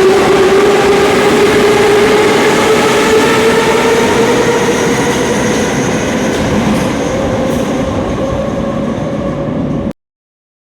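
Moscow metro 81-717.5M 'Nomernoy' car running underway, heard from inside: its traction drive whines over the running rumble, the whine rising slowly in pitch as the train gathers speed. The sound cuts off suddenly near the end.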